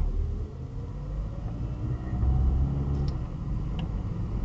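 Car engine pulling up a steep exit ramp, heard from inside the cabin over a low road rumble; its note rises over the first two or three seconds. A couple of faint clicks near the end.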